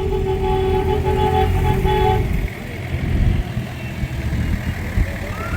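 A vehicle horn held in one steady note, cutting off about two seconds in, over the low rumble of engines. Near the end a siren-like tone starts, rising and then easing off.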